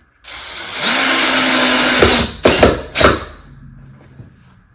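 Cordless drill driving a screw into hard maple: one steady run of about two seconds, then three short trigger bursts as the screw is snugged home.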